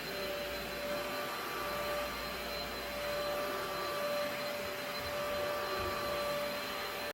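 Steady whirring of an electric motor or fan, with a constant thin whine over an even rushing noise.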